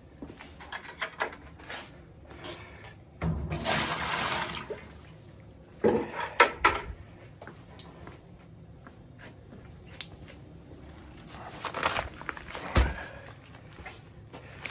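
Concrete being prepared in a wheelbarrow: a pouring rush for about a second and a half, a few seconds in, then scattered scrapes and knocks.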